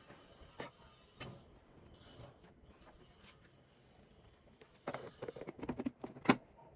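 Scattered light clicks, then a quick cluster of knocks and rustles near the end topped by one sharp click, the sound of containers and packets being handled and set down while a fridge is arranged.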